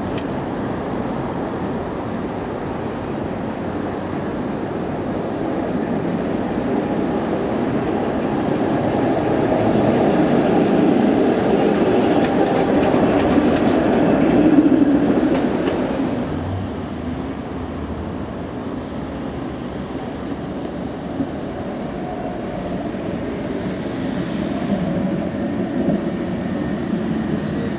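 A city tram running past on street track, its wheels and running gear growing louder to a peak about halfway through and then fading away.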